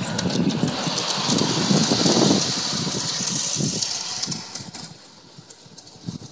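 G scale model train running on its track, with rapid clicking and a hiss over a low rumble, fading to a lower level about five seconds in.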